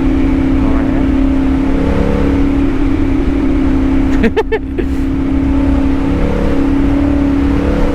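CFMoto 450SS parallel-twin engine with an aftermarket slip-on exhaust, running at a steady pitch under way, over a constant low wind rumble. Its pitch breaks briefly about four seconds in.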